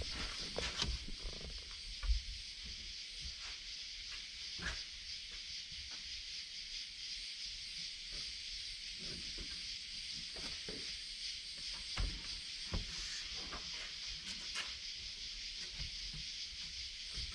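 A steady high hiss runs throughout, with scattered light knocks and bumps as the headliner board is handled into the car; the sharpest knocks come about 2 seconds in and again near 12 seconds.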